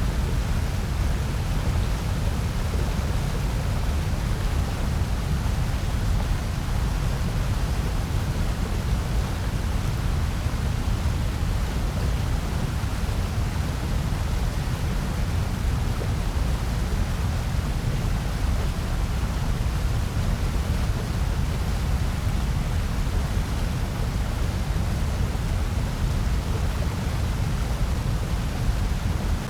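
Continuous generated noise, a steady hiss with most of its weight in the low end. It does not change.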